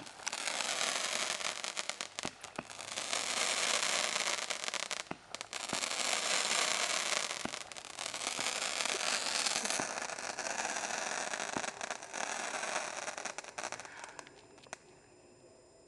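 Fireworks crackling: a dense hail of crackle effects with scattered sharp pops, swelling and easing about five times, then dying away near the end.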